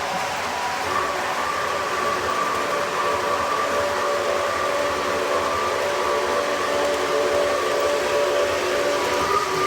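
Model trains running on a ceiling-mounted track, with a steady running noise. About a second in, a steam whistle sound starts and is held as a chord of several steady tones to the end.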